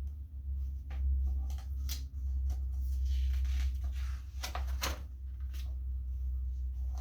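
Pages of a paperback picture book being turned and handled: light clicks and a papery rustle, busiest in the middle, over a steady low hum.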